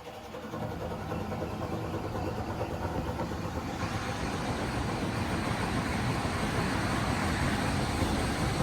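Blower dryers of an Oasis Typhoon car wash starting up: a rushing air noise that builds steadily louder, with a higher hiss joining about four seconds in.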